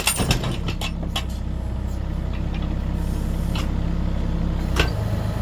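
Volvo EC60E mini excavator's diesel engine running steadily, with a few sharp knocks and cracks in the first second and another single knock near the end.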